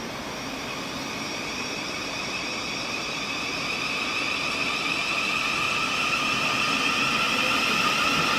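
Electric train's traction motors whining as it moves along the platform. The sound is a steady high whine over a rolling rumble, growing louder.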